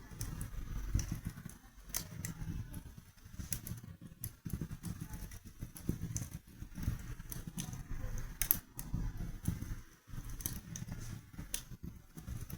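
Wood fire crackling in a fireplace: irregular sharp pops and snaps over a low, steady rumble of burning flames.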